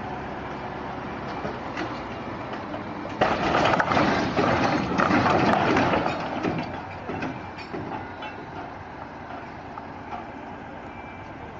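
Steady vehicle engine noise, then about three seconds in a sudden loud crashing clatter that lasts a few seconds and fades away.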